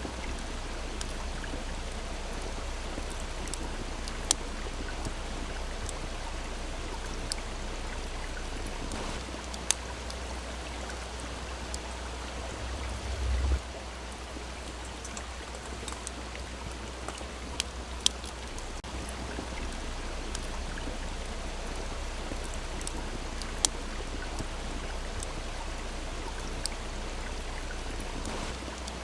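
Wood campfire crackling, with scattered sharp pops, over the steady rush of a small stream. A brief low rumble comes about halfway through.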